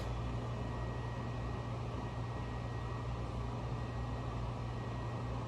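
Steady cabin noise aboard a Honolulu Skyline metro train: a low hum under an even rush, with a faint steady high whine.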